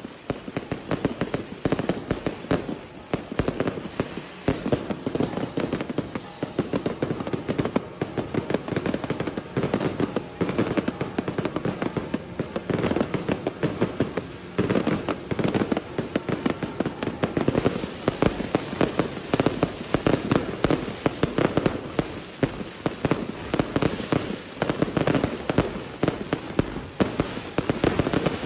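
Daylight fireworks display: a dense, continuous barrage of firecracker and aerial bomb bangs, the reports packed so close together that they overlap into a steady rattle.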